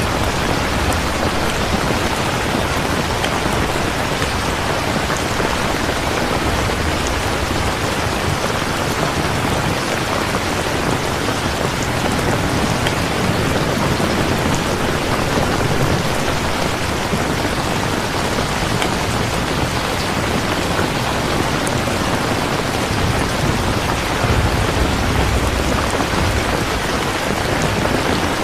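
Steady heavy rain falling, with a low rumble swelling in the bass now and then.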